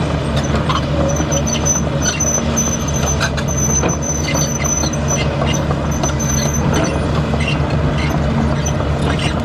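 Diesel engine of heavy construction machinery running steadily, with a thin high squeal that comes and goes through the middle and scattered clicks and knocks.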